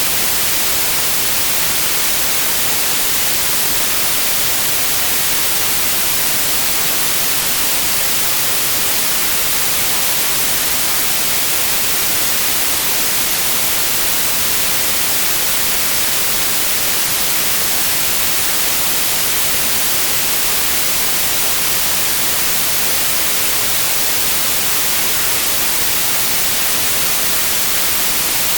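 Steady white noise: an even, unchanging hiss with no pitch or rhythm.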